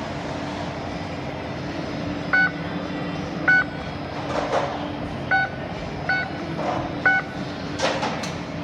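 Alto-Shaam oven control panel beeping as its buttons are pressed: five short electronic beeps at irregular intervals, over the steady hum of running kitchen equipment.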